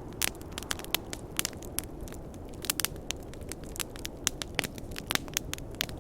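Wood fire crackling: irregular sharp pops, often several a second, over a steady low rushing noise.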